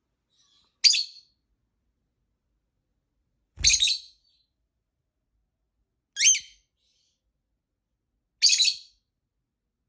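Female lovebird giving four short, high-pitched chirping calls, spaced about two and a half seconds apart.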